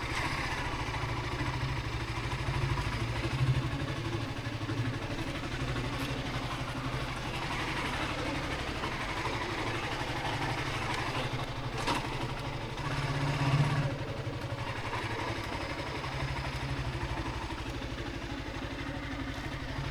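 Motorcycle engine running steadily at low revs, with a brief click about twelve seconds in.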